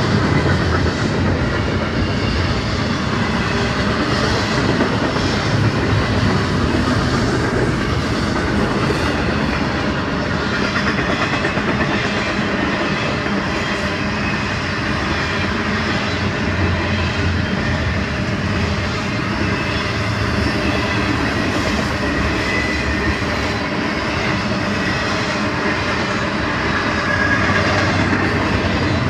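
Double-stack intermodal freight cars rolling steadily past: a continuous rumble and clatter of steel wheels on the rails.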